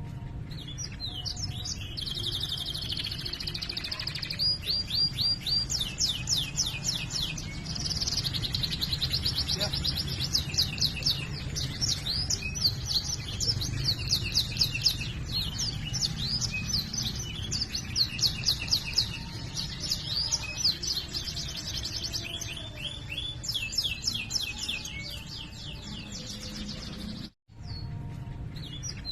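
Domestic canary in full song, singing continuous fast rolling trills and runs of rapid repeated chirps, over a steady low hum. The song cuts out briefly about 27 seconds in.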